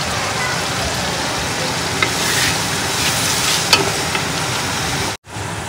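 Green peas and whole spices sizzling in hot oil in a non-stick pot: the frying stage at the start of a pea pulao. A wooden spoon stirs them, knocking lightly against the pot a couple of times. The sound breaks off for a moment near the end.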